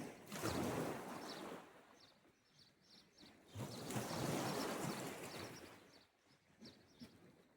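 Sea waves washing in on the shore, two swells rising and falling about three seconds apart, with small birds chirping faintly between them.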